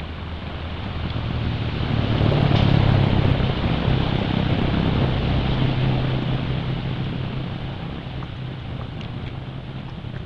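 A motor vehicle's engine running as it passes, a low hum that grows louder for the first few seconds and then slowly fades.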